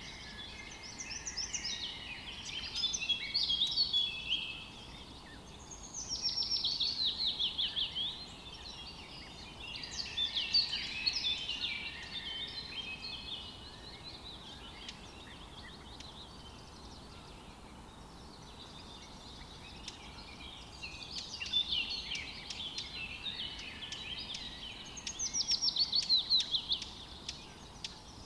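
Songbirds singing in about five bursts of busy chirps and trills, two of them quick falling trills, over a faint steady outdoor hiss.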